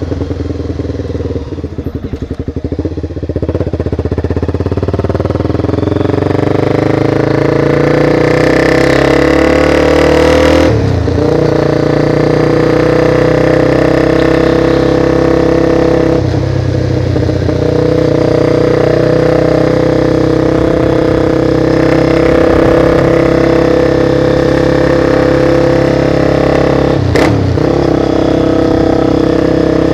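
Motorcycle engine heard on board while riding. Its note rises steadily as the bike accelerates, then holds at a cruising pitch, with short breaks in the sound about eleven seconds in, again around sixteen seconds and near the end.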